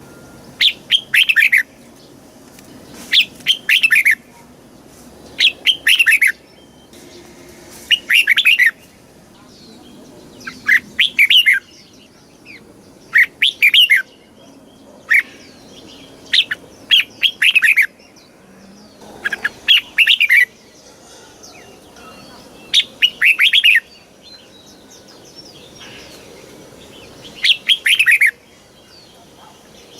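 Red-whiskered bulbul singing: about a dozen short, bright phrases of a few quick notes each, coming every two to three seconds.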